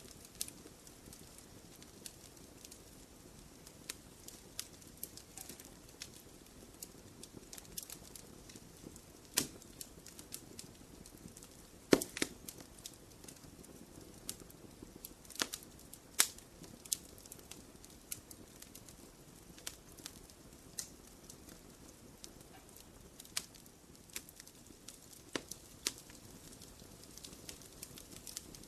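Wood fire in a fireplace crackling, with irregular sharp pops and snaps over a soft steady background; the loudest pop comes about twelve seconds in.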